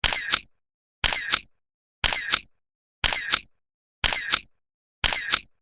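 Camera shutter sound effect repeating exactly once a second, six times. Each is a short double click about half a second long, the second click louder, with complete silence in between.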